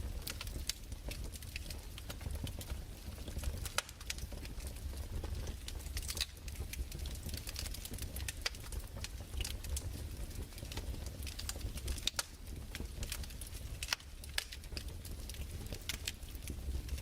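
Wood fire crackling in a fireplace: irregular pops and snaps over a low, steady rumble.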